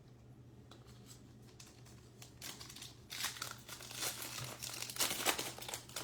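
Plastic trading-card pack wrapper crinkling as it is torn open. It starts about two seconds in and is loudest near the end.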